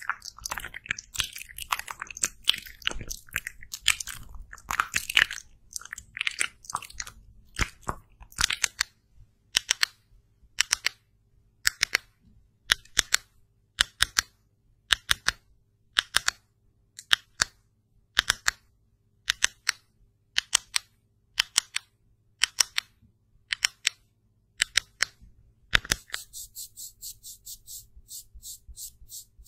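Close-miked crisp crunching clicks: dense at first, then about one or two sharp crackles a second. Near the end comes a quick run of fine, high ticks.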